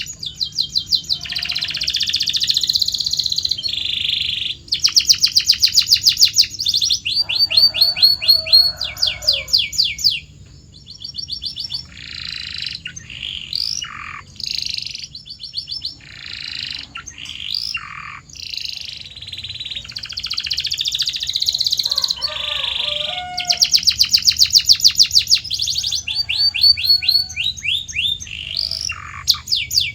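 Domestic canary singing a long song of fast repeated trills and rolls, switching from phrase to phrase, with slower downward-swooping notes in the middle.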